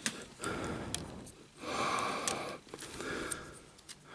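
Two long breaths close to the microphone, the first near the start and the second around the middle, with a few light clicks of plastic toy parts being handled.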